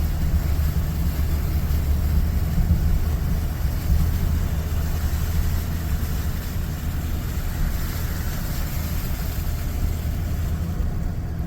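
Work truck driving slowly through deep floodwater on the road, heard as a steady low rumble of engine and wheels in water.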